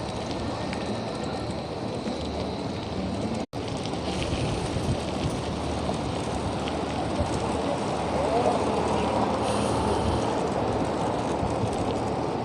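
Steady rushing road and wind noise while riding a bicycle in traffic, cut off completely for a moment about three and a half seconds in.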